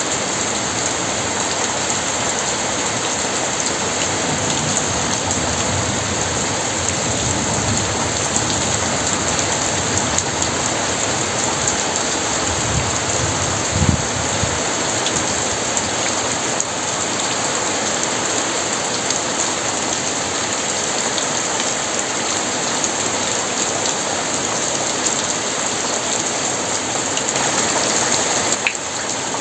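Very heavy rain pouring down steadily, with a low rumble of thunder about halfway through.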